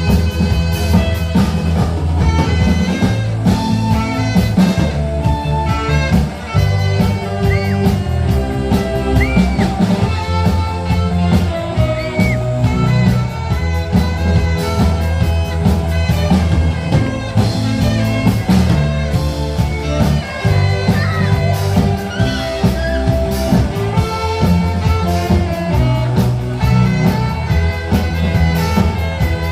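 Live band playing an instrumental rock tune: a melody line over bass and a drum kit beat.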